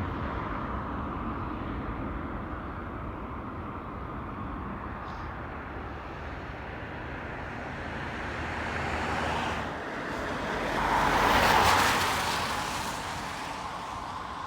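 Steady outdoor engine rumble, with a vehicle passing close by: the noise swells over several seconds, peaks about three-quarters of the way through, then fades away.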